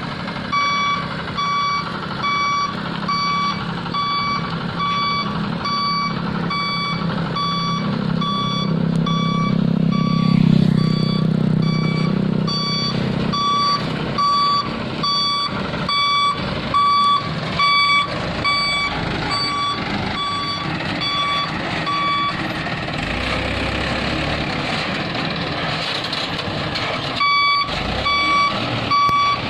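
Dump truck's reversal alarm beeping at a steady, even pace, roughly one to two beeps a second, over its diesel engine running; the engine rises in level about ten seconds in. The beeping stops for a few seconds near the end and then starts again.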